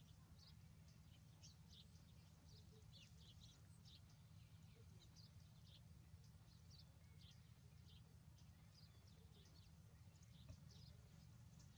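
Near silence with faint, scattered high chirps of small birds, a few each second, over a low steady hum.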